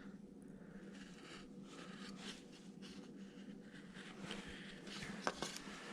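Faint scraping strokes of a carving blade cutting into a small wooden figure, with one sharp tick about five seconds in.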